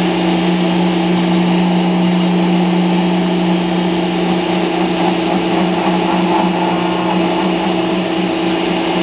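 Router spindle on a homemade CNC machine running steadily with a constant hum while roughing out 4-inch foam.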